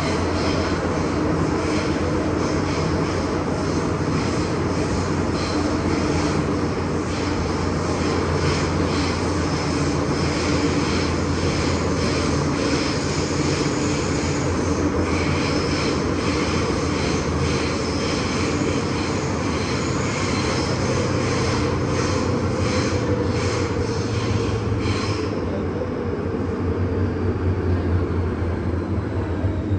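MTR M-Train electric metro train running, a steady rumble of wheels on rail with the hum and whine of its traction motors. Near the end a high whine slides down in pitch.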